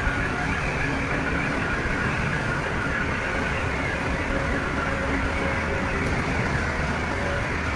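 Heavy diesel earthmoving machinery running steadily under work, a continuous low engine noise without breaks.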